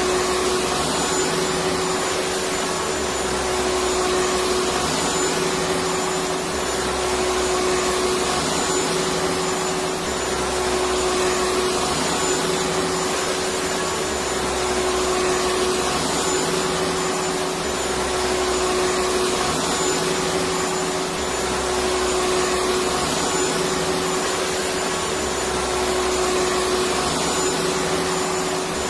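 Electric vacuum cleaner running steadily: a continuous even whoosh with a constant motor hum, and a faint low pulsing that repeats about every two seconds.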